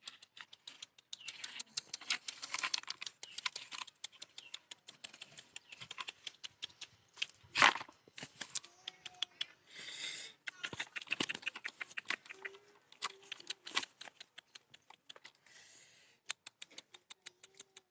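Rapid, irregular tapping and scratching clicks on a hard surface, with one louder knock about seven and a half seconds in.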